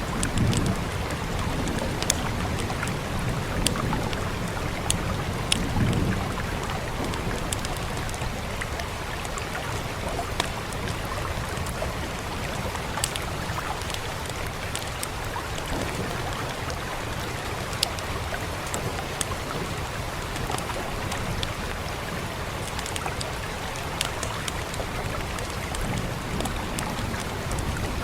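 Steady rain hiss mixed with the irregular sharp pops and crackles of a burning wood fire, with a few low swells in the first several seconds.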